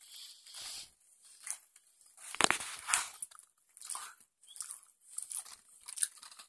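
Chewing a steak sub with bell peppers, close to the microphone, with irregular crunchy bites. The crunching is loudest about two and a half to three seconds in.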